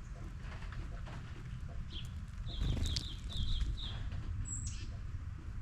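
Small birds chirping: a quick run of about six short notes starting about two seconds in, then one higher note near the end, over a steady low rumble.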